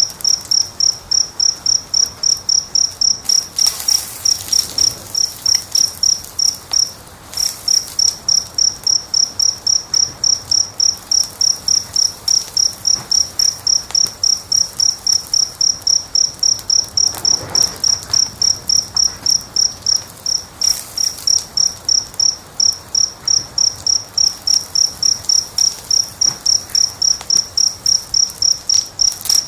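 Cricket chirping in a steady high-pitched rhythm, about three chirps a second, with a brief break about seven seconds in. A few faint crackles and pops of a wood fire sound under it.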